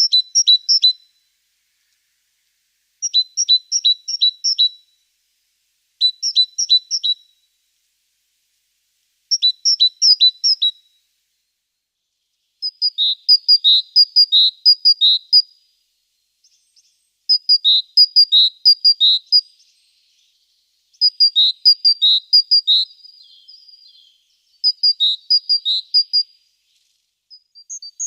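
Small bird chirping in bursts of rapid high notes, a burst every three seconds or so; the bursts grow longer about halfway through.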